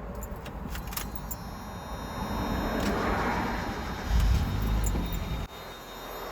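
Keys jingling and clicking, then a 1994 Mazda Miata's 1.8-litre four-cylinder starting from cold and running. The sound swells about four seconds in and drops suddenly about a second and a half later to a quieter steady run.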